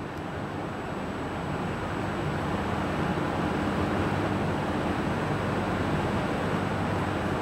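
JR Hokkaido 789 series electric train standing at the platform. Its onboard equipment gives a steady hum over a hiss.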